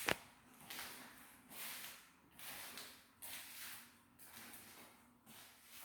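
A single sharp click just after the start, then soft footsteps at an even walking pace, about one step every 0.8 seconds.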